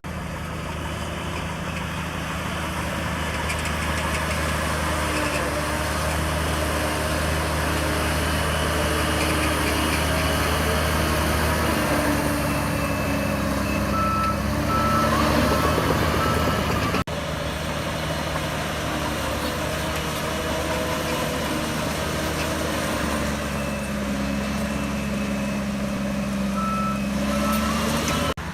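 Shantui DH17C3 bulldozer's diesel engine working under load, its pitch rising and falling as it pushes. A reversing alarm beeps briefly about halfway through and again near the end.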